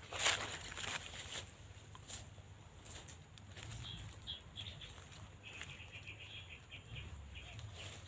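Footsteps crunching and rustling through dry leaves and undergrowth, strongest in the first second. In the middle comes a small bird's run of quick, high chirping notes, twice.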